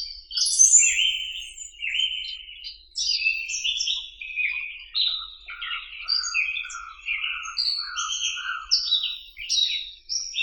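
Several songbirds chirping and singing at once, short overlapping chirps and trills, with a lower note repeated about twice a second through the second half.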